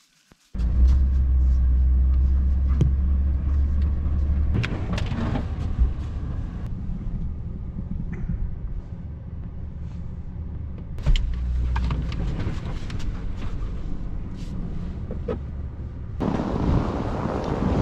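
A vehicle engine running with a steady low drone and rumble, its pitch shifting a couple of times, with scattered clicks and a louder rushing noise near the end.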